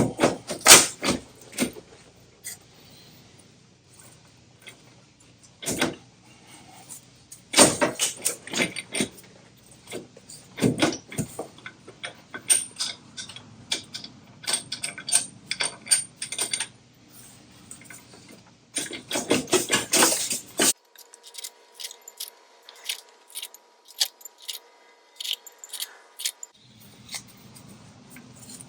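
Hand tools and metal engine parts clinking and clattering in irregular clusters of sharp clicks and clanks while a cylinder head is taken apart, with quieter pauses between.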